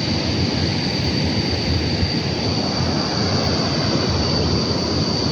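Waterfall's steady rushing roar of falling water, with a thin, steady high tone over it.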